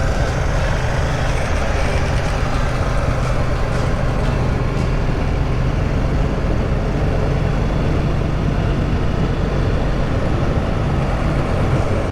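BMW R 1250 GS Adventure's boxer-twin engine running steadily at cruising speed while under way, under a steady rushing noise.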